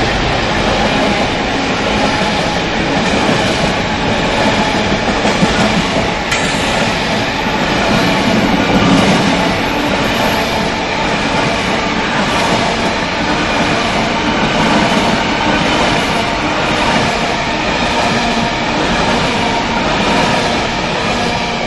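Coal wagons of a freight train rolling past close by, with a steady loud clatter of wheels on the rails.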